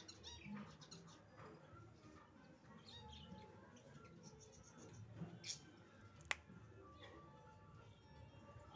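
Faint chirping and twittering of budgerigars, in short scattered calls, with one sharp click about six seconds in.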